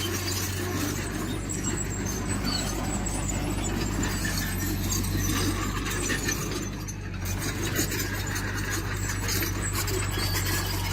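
Diesel engine of heavy earthmoving machinery running steadily, with intermittent high metallic squeals, typical of steel crawler tracks.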